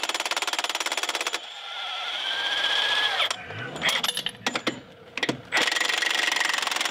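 Milwaukee M18 FUEL 1-inch D-handle cordless impact wrench hammering on a rusted Budd nut of a semi-truck rim, fighting rust on the threads. About a second and a half in, the hammering stops and the wrench spins freely with a rising whine. A few metal clanks follow, and the rapid hammering starts again near the end.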